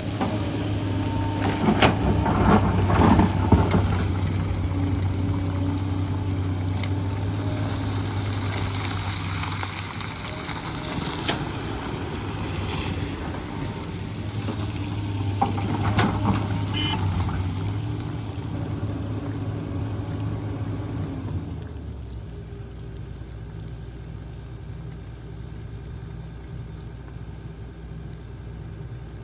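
Hyundai excavator's diesel engine running steadily under work, with scraping and knocking from the bucket on the ground about two to four seconds in and again about sixteen seconds in. About twenty-two seconds in the engine settles to a quieter hum.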